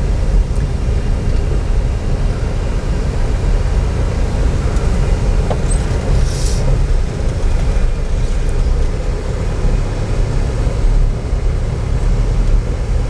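Car driving along a road: steady engine and road noise with a heavy low rumble.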